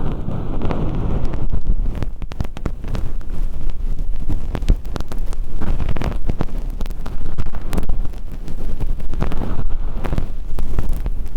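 Earpick scraping and rubbing inside a silicone ear model's canal, close to the microphone, lifting away thin-skin fake earwax. It is a loud, scratchy rustle dotted with many small clicks.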